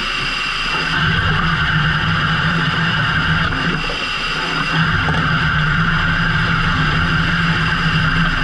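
Fishing boat's engine running steadily, with a constant low hum and a hiss of water over it.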